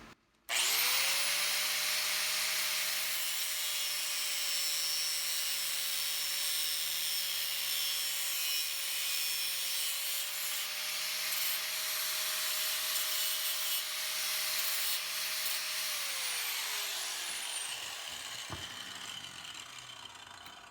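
A high-speed electric cutting tool cutting the top off a door-latch mechanism. The motor starts about half a second in and runs steadily with a harsh grinding hiss for about fifteen seconds, then its pitch falls as it spins down near the end.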